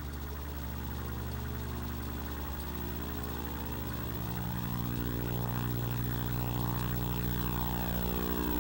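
Experimental electronic drone: a low buzzing hum with many steady overtones and faint sweeping tones above, slowly growing louder about five seconds in.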